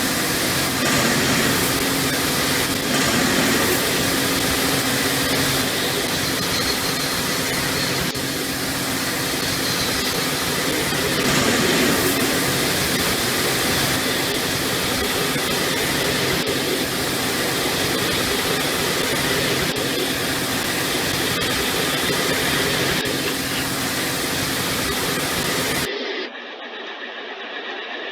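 MacNeil car wash tunnel equipment running around a car passing through: a dense, steady rush of water spray and machinery. Near the end the sound drops suddenly to a quieter, thinner sound.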